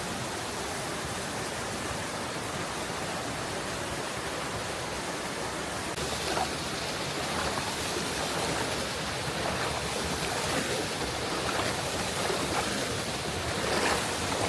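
Rushing water of a waterfall and its fast-flowing stream, a steady hiss that grows a little louder and brighter about six seconds in, with small splashes near the end.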